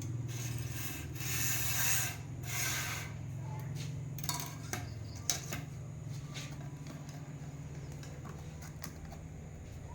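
Two short bouts of scraping and rubbing, with a few light clicks later, over a steady low hum.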